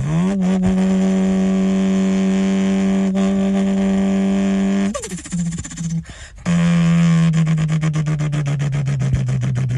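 Car engine revved up quickly and held at steady high revs for about five seconds, then let fall. It is revved again and held, sliding down in pitch in steps, with a fast even pulsing near the end.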